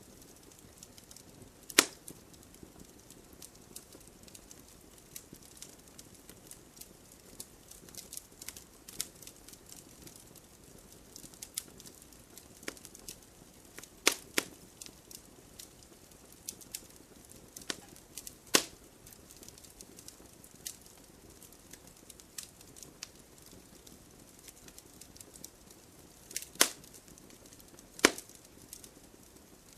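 Wood fire crackling: a soft steady hiss of burning logs with scattered sharp pops and snaps, a handful of them much louder than the rest.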